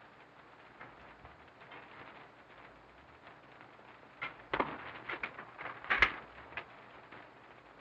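Steady hiss of an early sound-film track, then a scattered run of short sharp knocks and clatters starting about four seconds in, the loudest two about a second and a half apart.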